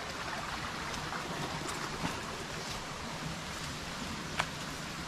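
Steady rush of stream water flowing through a rocky forest gorge, with a couple of faint clicks about two and four seconds in.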